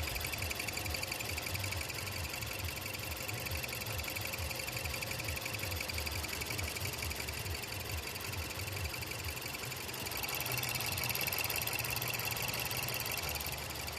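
Rapid, high-pitched chirping, many chirps a second and evenly spaced, over a Mazdaspeed6's idling engine. The chirping grows louder for a few seconds near the end.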